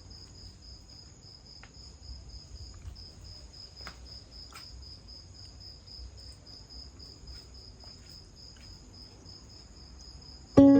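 Crickets chirping steadily at night, a high pulsing trill repeating about three times a second. Guitar music starts right at the end.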